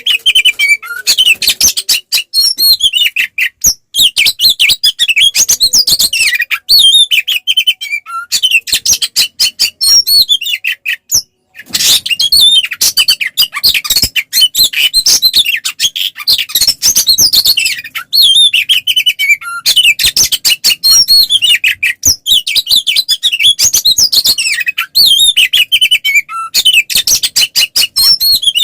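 Oriental magpie-robin (kacer) singing loudly in a rapid, varied stream of whistles and trills, its full, aggressive challenge song ('ngeplong tarung'), with short breaks about 2, 4 and 11 seconds in.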